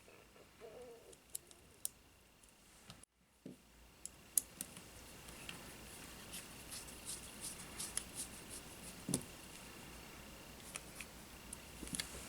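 Quiet workbench handling during a drone frame repair: scattered light clicks and taps of small tools and parts, with a faint steady high whine through most of it. The sound drops out completely for a moment about three seconds in.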